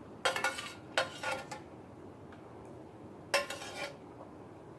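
Eating utensils scraping and clinking against a noodle bowl in three short bursts, about a second apart at first and then once more near the end.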